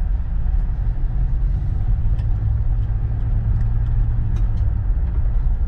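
Steady road and engine rumble heard inside a car's cabin as it drives along a gravel road, with a few faint ticks mixed in.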